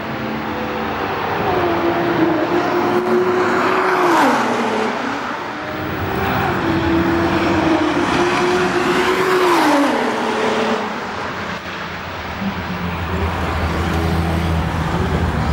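Nissan GT-R's twin-turbo V6 at speed, passing by twice. Each time the engine note holds steady as the car approaches, then drops sharply in pitch as it goes past, about four seconds in and again about ten seconds in.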